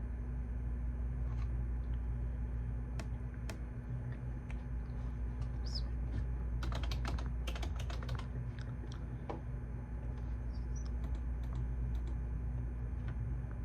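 Computer keyboard typing: scattered single keystrokes, with a quick run of rapid keystrokes about halfway through, over a steady low room hum.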